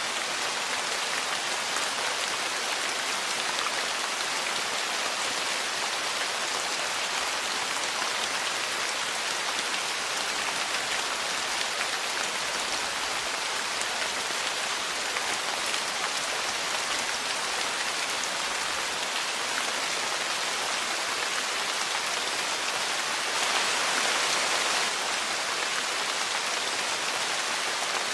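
Steady rain falling on a porch, an even hiss of many drops, swelling briefly louder near the end.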